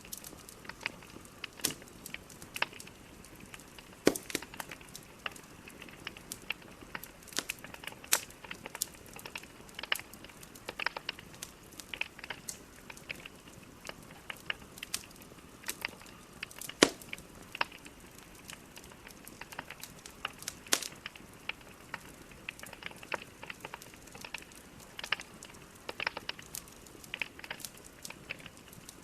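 Burning logs in a fireplace crackling, with irregular sharp pops and snaps over a soft hiss. A few louder pops stand out, one of them about 17 seconds in.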